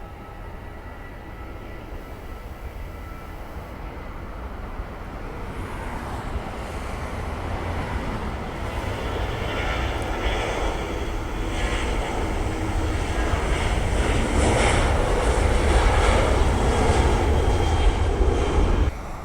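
Jet airliner's engines growing steadily louder as it comes in to land, then cutting off abruptly near the end.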